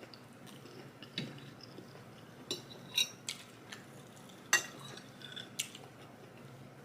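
Cutlery clinking and scraping against a plate of food, a handful of short sharp clinks with the loudest about halfway through.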